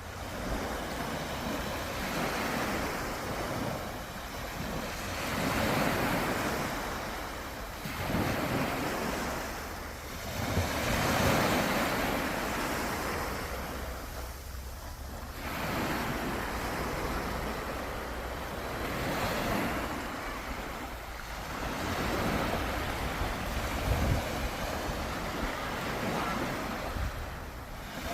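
Sea waves breaking and washing up the shore, the rush of surf swelling and ebbing every few seconds.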